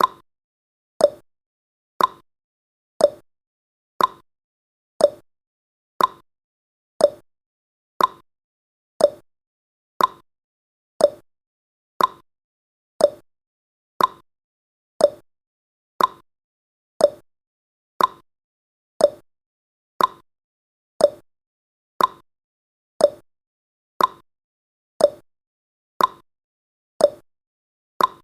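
Countdown timer's ticking sound effect: one short clock tick every second, evenly spaced, each dying away quickly.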